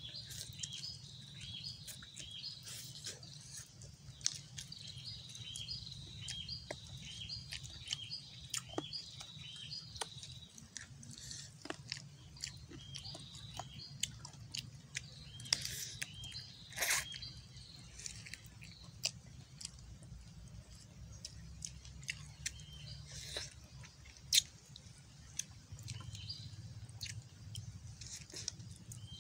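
Close-up chewing and biting on grilled chicken, with many short wet mouth clicks and smacks. Birds chirp in the background in quick runs of short repeated notes, mostly through the first ten seconds and again later.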